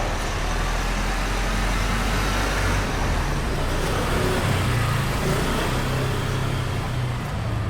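Street traffic: steady road noise with a motor vehicle's engine running close by, its low hum growing stronger in the second half.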